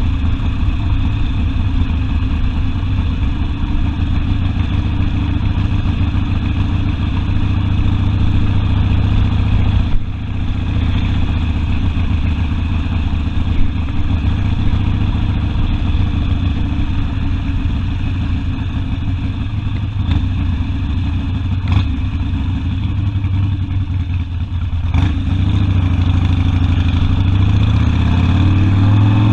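Harley-Davidson Sportster V-twin engine running on the road, a steady low exhaust pulse with a few small clicks, getting louder and rising in pitch in the last few seconds as the throttle opens.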